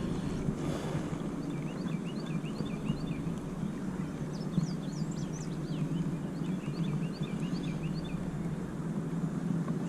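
Birds chirping in many short, high, hooked notes, several a second, over a steady low rumble.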